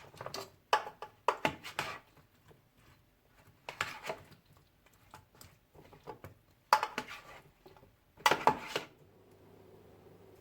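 Household objects being handled, most like kitchenware: four short bursts of clinks and knocks, with quiet gaps between them.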